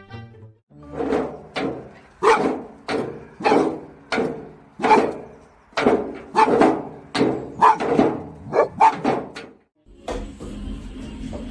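A dog barking repeatedly, about a dozen barks in a row, which stop near the end.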